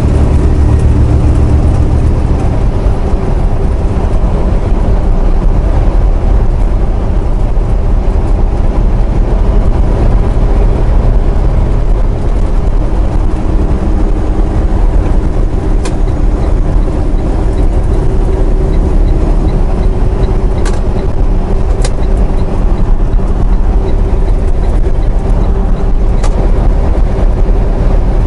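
Semi truck's diesel engine and tyre noise, a steady heavy rumble heard inside the cab while cruising on the highway, with a few short ticks in the second half.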